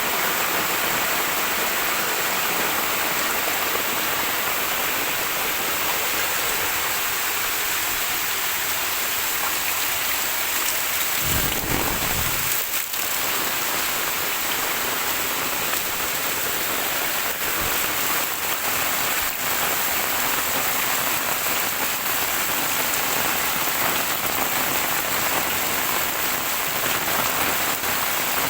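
Heavy rain pouring steadily, with a brief low rumble a little under halfway through.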